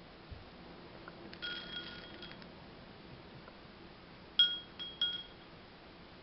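A small bell jingling in two short bursts about three seconds apart, each a few quick rings.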